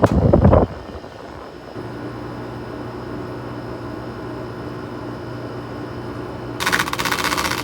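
Haier 5,200 BTU window air conditioner running on high cool with a steady hum, after a loud low thump at the start. Near the end a loud rasping scratch, about a second long, as a temperature gun rubs against the unit's fan.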